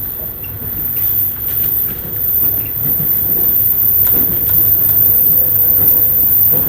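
Onboard running noise of a JR 103-series electric train: a steady low hum and rumble, with scattered clicks from the wheels and track, building up until it drops off sharply at the end.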